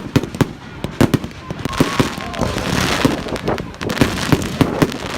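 Fireworks going off: a rapid, irregular run of sharp bangs with crackling between them, and a faint whistle about two seconds in.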